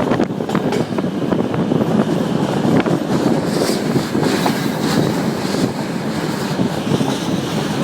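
Flåm Railway train carriage running along the track, heard from inside the moving train: a steady rumble of wheels on rails with frequent short clicks and clacks.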